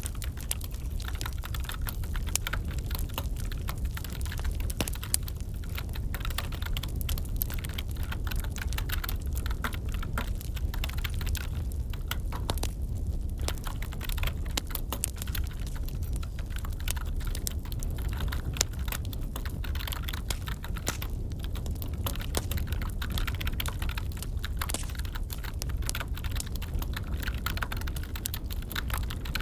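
Computer keyboard typing, a steady run of irregular key clicks, over a crackling wood fire with a steady low rumble.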